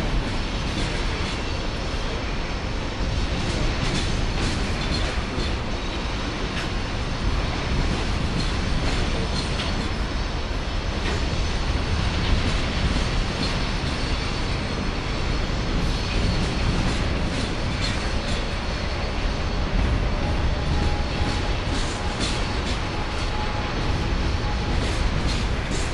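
Coal train's hopper cars rolling past steadily on a curve: a continuous rumble with frequent clicks of wheels over rail joints, and a faint thin wheel squeal from the curve in the second half.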